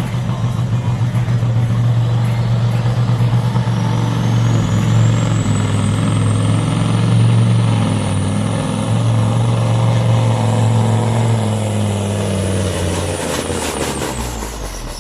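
Supersport pulling truck's diesel engine running hard under load during a pull, with a high turbo whistle that climbs and holds. Near the end the engine drops off and the whistle falls, with a few short sharp hisses as the pull ends.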